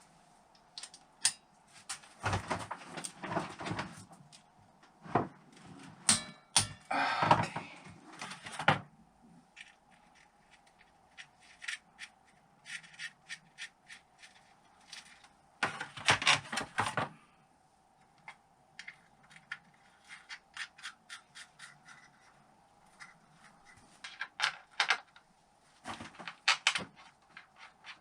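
Ratchet wrench clicking in quick runs of ticks as engine bolts are wound down and torqued, mixed with louder clatter of tools and parts being handled a few times.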